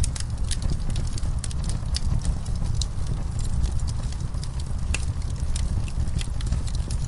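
Fireplace wood fire crackling, with irregular sharp pops and snaps over a steady low rumble.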